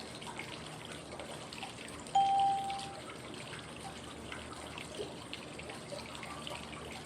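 Flowing-water white noise, a steady trickling rush, with one clear pure beep about two seconds in that lasts under a second. The beep is a cue tone marking a step in the 5-5-5 breathing cycle.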